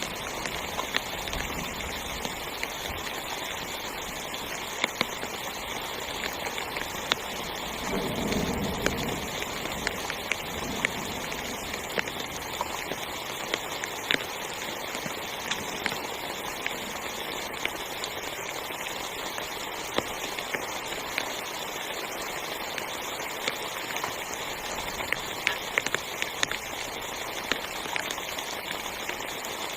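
Heavy rain falling on a tent's fabric: a steady hiss sprinkled with many sharp individual drop hits. A brief low-pitched sound comes about eight seconds in.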